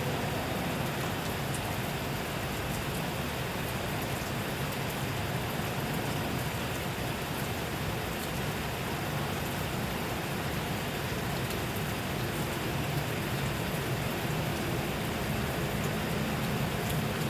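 Steady rainfall: an even hiss with scattered drops ticking on a surface.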